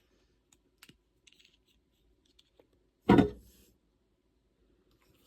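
Faint light clicks of small metal cornet valve parts being handled, then one loud thump about three seconds in.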